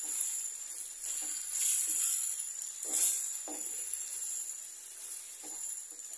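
Minced beef and diced onion sizzling in a frying pan as they are stirred with a wooden spoon: a steady high hiss that swells with each stir, with a few soft scrapes of the spoon against the pan.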